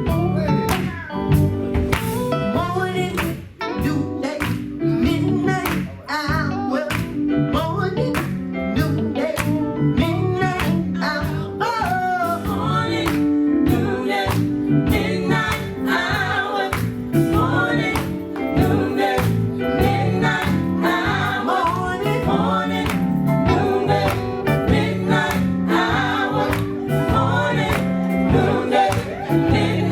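Live gospel music: a band playing a steady beat under singing.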